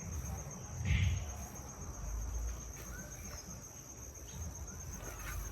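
Insects, such as crickets, shrilling steadily in a high-pitched continuous trill.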